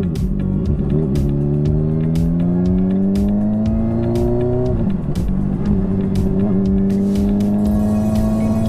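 Motorcycle engine accelerating, its pitch rising slowly, then dropping suddenly about five seconds in as it shifts up a gear and running steady after. Short knocks keep sounding over it.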